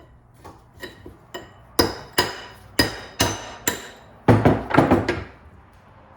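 Hammer striking the yoke of a double cardan drive shaft joint, metal on metal, to drive out a stuck U-joint. It starts with a few light taps, then harder blows about every half second, and ends in a quick flurry, each blow ringing briefly. The joint is stubborn and does not come free.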